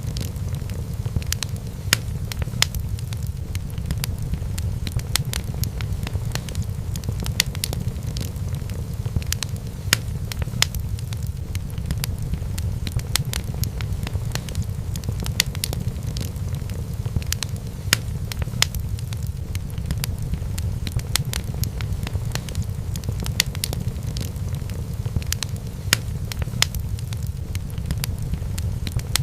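Wood fire burning in a fireplace, crackling with sharp, irregular pops and snaps over a steady low rumble of the flames.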